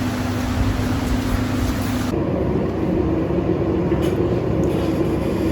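Steady ship engine-room machinery drone with a low, constant hum. About two seconds in, the hum steps up to a higher pitch and the high hiss drops away suddenly.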